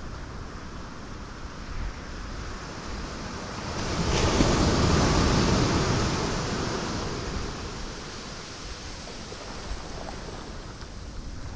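Ocean waves breaking on rocks over a steady rush of surf. One wave swells about four seconds in, crashes, and washes away over the next few seconds.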